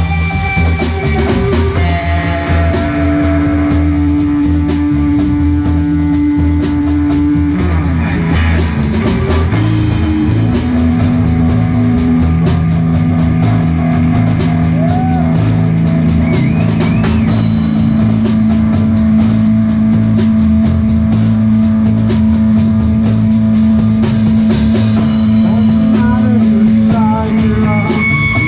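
Live rock band playing an instrumental passage: drum kit, bass and electric guitar, with long held guitar notes over the beat.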